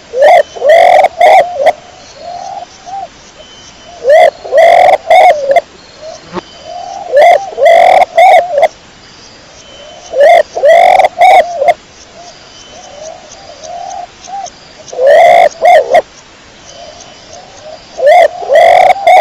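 Domestic pigeons cooing: six loud cooing phrases, roughly every three seconds, with softer coos in between.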